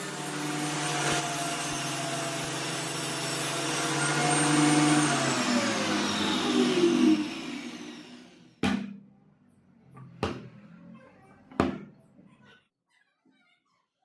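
An electric power tool's motor runs steadily, then is switched off about five seconds in and winds down with a falling whine. Three sharp knocks follow, about a second and a half apart.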